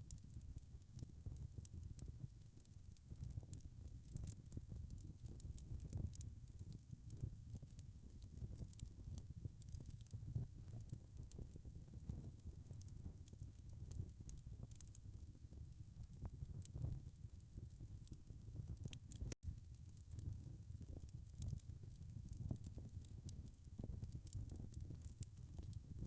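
Wood fire crackling faintly over a low rumble, with many small sharp pops. A split-second gap about three-quarters of the way through.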